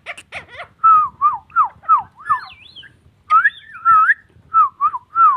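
Indian ringneck parakeet whistling: a run of short, clear whistled notes, many dropping in pitch, with a higher warbling note partway through.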